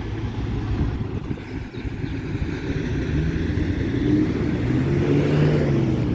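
A motor vehicle's engine running close by, its low rumble growing louder with a slowly rising and falling pitch from about halfway through, as a car moves past or pulls up.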